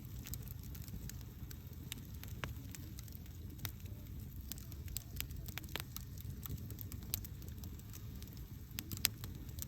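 Campfire burning: a steady low rumble of flames with irregular sharp crackles and pops of burning wood, one louder pop about nine seconds in.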